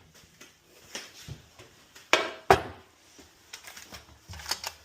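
Light clicks and knocks from a cooker door and its loose glass panel being handled, with two sharper knocks a little after two seconds in.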